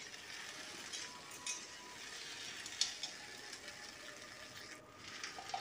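Cut okra frying in mustard oil in an aluminium kadhai, giving a faint, steady sizzle, with a few sharp clicks and scrapes from a metal spatula stirring against the pan.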